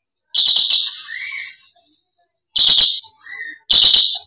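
Dusky lory calling: three loud, harsh screeches about half a second each, with softer short rising calls between them.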